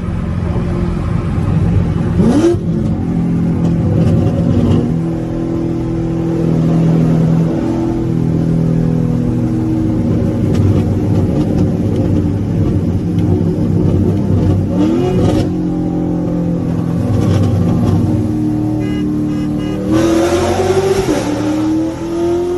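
Straight-piped Corvette C7 Grand Sport's 6.2-litre V8 running hard through a street race, loud throughout, its pitch sweeping sharply upward about 2 s in, again near 15 s and once more from about 20 s. The driver short shifted during the run, changing up early.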